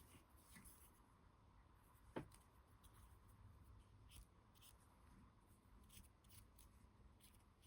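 Near silence with faint small ticks and rustles of handling, and one sharper click about two seconds in.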